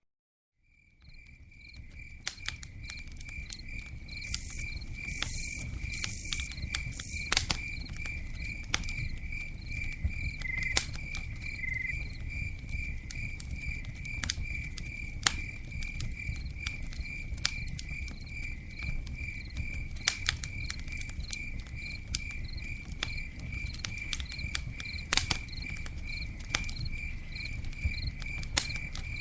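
Campfire crackling and popping over a low steady rumble of burning wood, with a cricket chirping in a steady, even rhythm. The sound fades in over the first couple of seconds.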